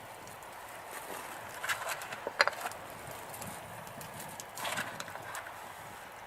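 Two short clusters of knocks and clatter, with the sharpest single knock about two and a half seconds in and a second cluster near five seconds, over faint outdoor background hiss.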